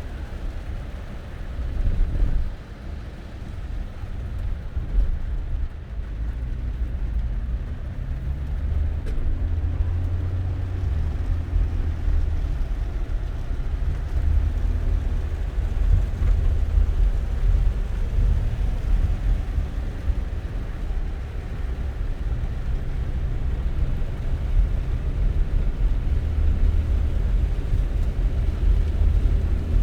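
Car driving: a low, steady rumble of road and engine noise that swells and eases slightly.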